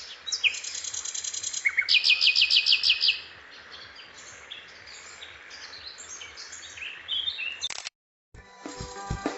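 Recorded songbird calls: high chirps and whistled phrases, with a fast, loud trill about two seconds in. Near the end the birdsong cuts off, and after a short gap music with plucked guitar and drums begins.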